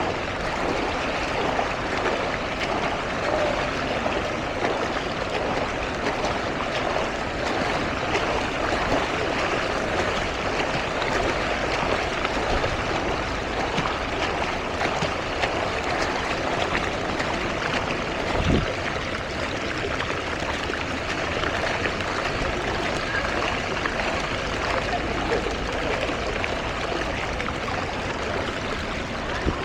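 Steady rushing and trickling of floodwater, with a single thump about two-thirds of the way through.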